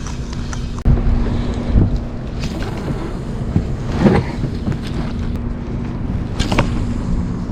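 Wind buffeting the microphone in a small jon boat on open water, over a steady low hum, with a few brief knocks or splashes about a second in, near the middle and near the end.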